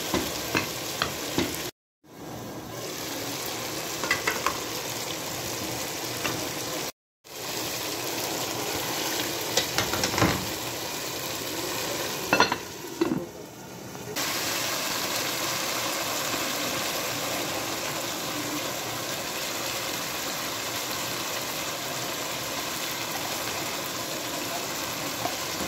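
Onions, tomatoes and chicken frying in oil in a pot, a steady sizzle with the occasional click and scrape of a spoon stirring against the pot. The sound cuts out briefly twice.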